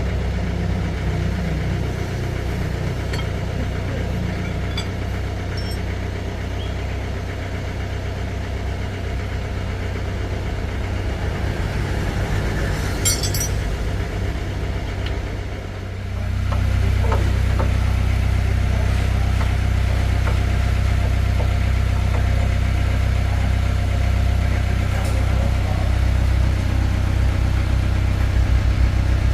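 Engine running steadily at idle. About halfway through it gets louder and stays at the higher level.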